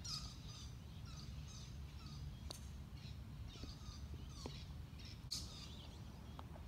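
Birds chirping and calling in repeated short bursts of chatter, with a few falling whistles, over a steady low rumble.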